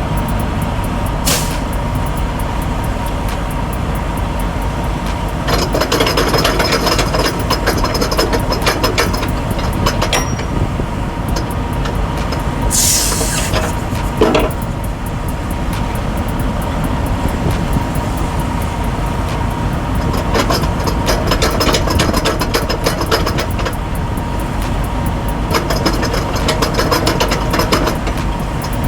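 Semi truck's diesel engine running steadily with a low rumble. About halfway through comes a short hiss of air.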